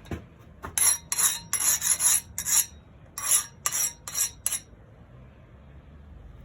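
A quick run of about a dozen short scraping strokes of steel rubbing on metal, spread over four or five seconds, then they stop.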